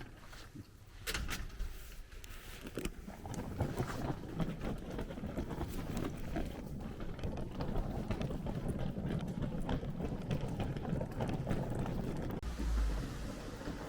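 Luggage being moved, likely suitcases hauled or rolled up to the room: two knocks, then a steady rattling rumble that cuts off abruptly near the end.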